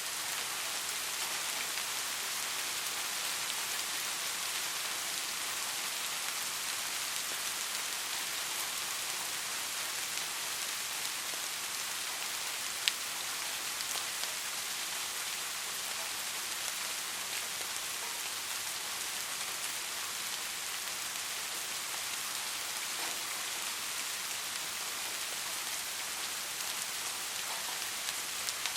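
Steady rain falling on a surface: an even hiss with scattered drop ticks, one sharper drop about halfway through.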